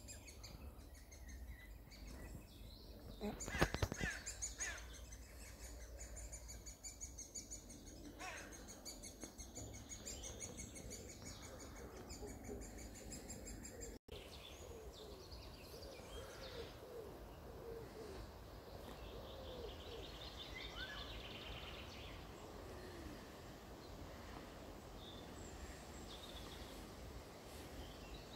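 Small birds chirping and singing in the open, with a short clatter of knocks a few seconds in. After an abrupt break about halfway through, fainter bird calls go on over a low background hiss.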